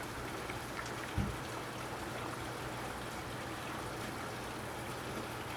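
Torrential rain pouring down in a steady, dense hiss, with water spilling over the edge of overwhelmed gutters. A single brief low thump sounds about a second in.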